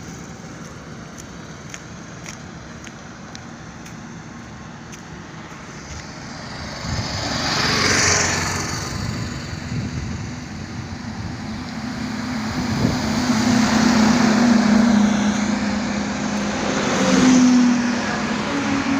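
Highway traffic passing. One vehicle goes by about eight seconds in. Then a heavier vehicle with a low, steady engine drone builds up and passes, loudest near the end.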